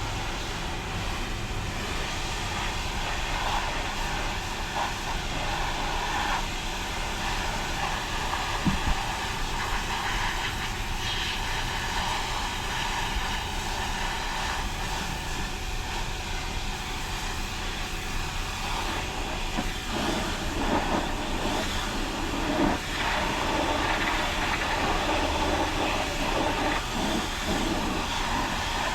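Automatic car wash machinery running: a steady hiss of spray and machine noise that grows louder and busier about twenty seconds in, with one brief knock a third of the way through.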